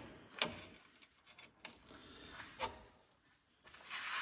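Pry bar working a Chevrolet Equinox's steel lower control arm loose from its mounts: three short sharp knocks about a second apart, then a scraping noise that builds near the end.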